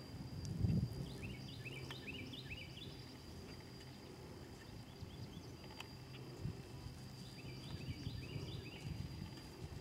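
Outdoor ambience: a songbird sings two runs of quick, repeated chirps, over a steady thin high whine. Beneath them is an uneven low rumble of wind and soft hoofbeats on grass, with a thump about a second in.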